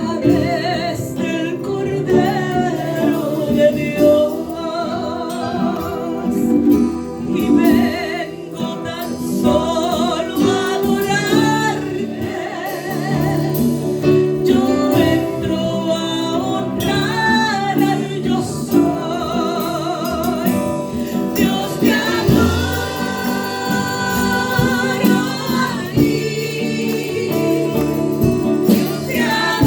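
Spanish-language gospel worship music: a singer holds long, wavering notes over steady instrumental accompaniment.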